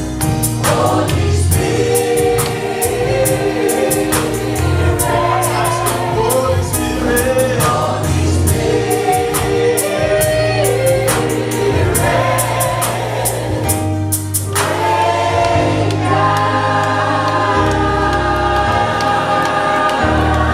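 Gospel worship music: a choir singing over a live band with bass and regularly struck cymbals. About fourteen seconds in, the drums drop out, leaving sustained chords under the voices.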